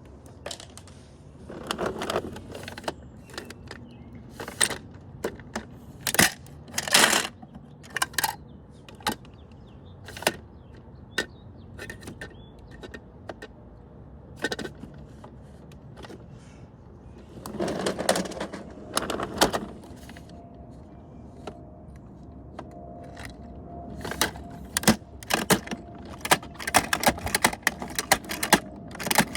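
Irregular clicks and clacks of hard objects knocking together, scattered and then coming thick and fast near the end, with a faint steady hum in the later part.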